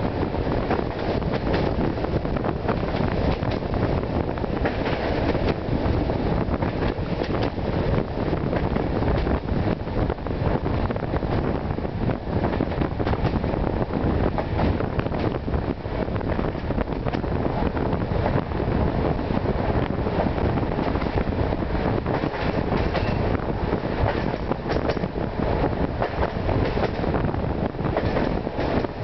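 Passenger train running at speed, heard from a window of one of its coaches: a steady rumble of wheels on rails with frequent clicks and knocks.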